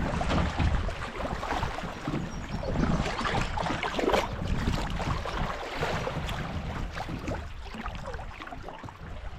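Water splashing and lapping around a canoe being paddled down a river, in irregular small splashes.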